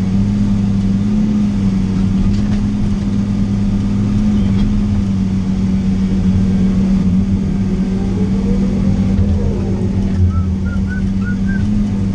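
Diesel engine of a log loader running steadily under work, heard from inside the cab, its pitch rising and falling briefly near the end as the loader is worked.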